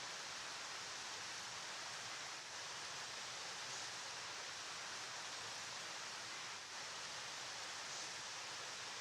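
River water flowing, a steady even rush that is heaviest in the hiss range, with no distinct splashes.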